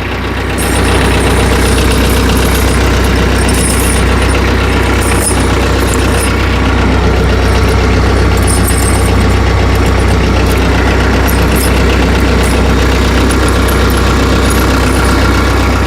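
Tractor engine idling steadily, a constant low drone that comes up about a second in, with a few faint light clinks over it.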